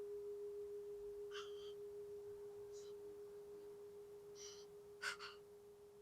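A single bell-like chime tone slowly dying away with a slight wobble, its higher overtones already gone. A few faint short chirps sound over it.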